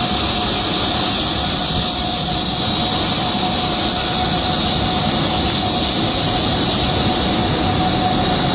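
Jet engine noise: a steady, even rush with a constant high whine and a fainter mid tone, unchanging throughout.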